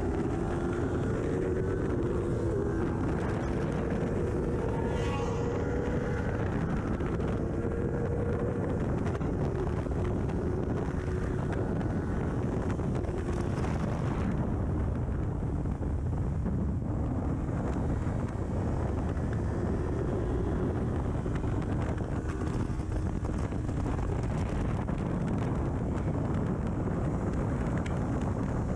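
Kawasaki Ninja 400's parallel-twin engine on an aftermarket full exhaust, ridden hard on track: its pitch rises and breaks off several times in the first nine seconds or so. After that it is largely buried under steady wind rush on the microphone at speed.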